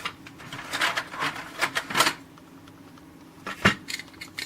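Handling of a small cardboard toy box and a die-cast model wagon: rustling and scraping for about two seconds, then a single sharp click a little after three and a half seconds in.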